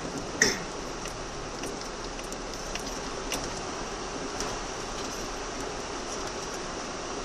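Off-road vehicle driving through a river ford: a steady wash of water and driving noise, with a sharp knock about half a second in and scattered light ticks against the body.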